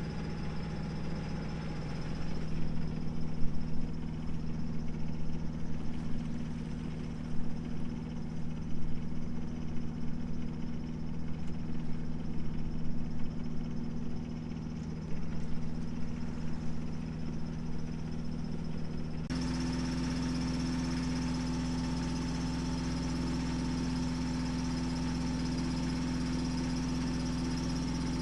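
A sailboat's inboard engine runs steadily under way with a low, even hum. About two-thirds of the way in, the hum shifts abruptly in pitch and the sound becomes smoother.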